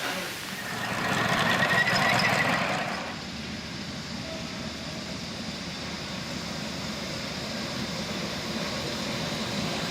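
Miniature railway locomotive and train running on the track: a rushing noise swells for about two seconds, then a steadier running sound slowly grows louder toward the end.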